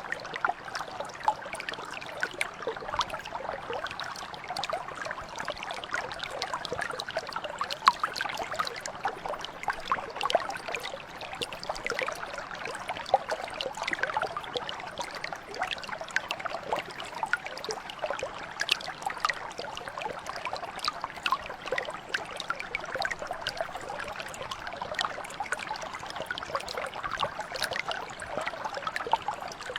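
Small mountain brook flowing steadily, a continuous babble of water dotted with many tiny splashes and gurgles.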